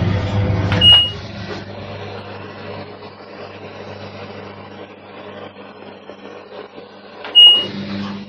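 LG front-load washing machine running with a loud steady hum that drops off sharply about a second in, at a short high beep from its control panel. A quieter hum carries on until a second identical beep near the end.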